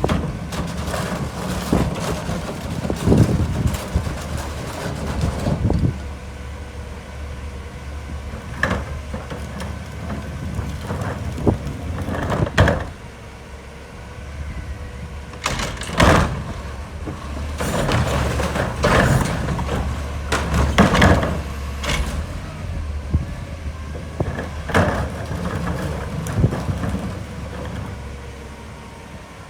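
Autocar garbage truck with its diesel engine running steadily, while repeated metallic clanks and bangs from the collection equipment and bins break in irregularly, the loudest about 3, 12, 16 and 21 seconds in.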